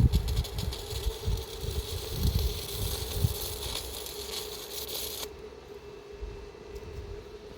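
Electric arc welding on an iron gate: the arc crackles and hisses steadily for about five seconds, then stops abruptly, over the steady hum of the welding machine.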